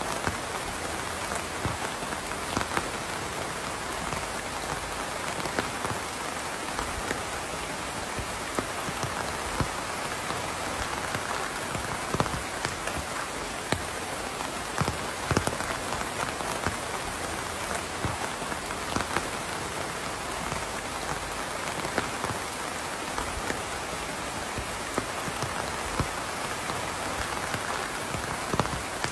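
Steady rain with many separate drops pattering and ticking on a hard surface.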